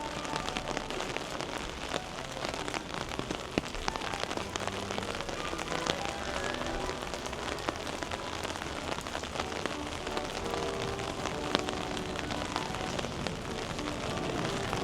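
Steady spring rain, with a dense patter of sharp drop ticks on an umbrella overhead.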